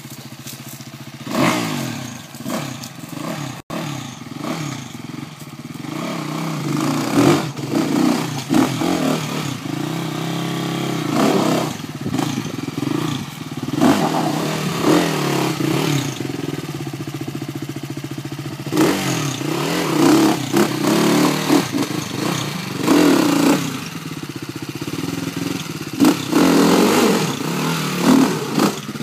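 Off-road motorcycle engine revving up and down in repeated short bursts as it climbs over rocks. Scattered knocks and clatter are mixed in.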